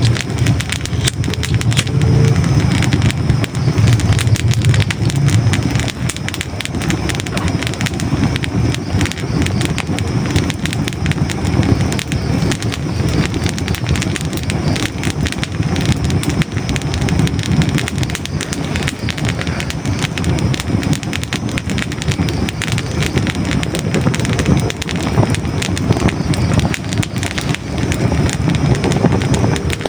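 Hardwood logs burning in a fireplace: a steady low rumble of flame with dense, continuous crackling and small pops.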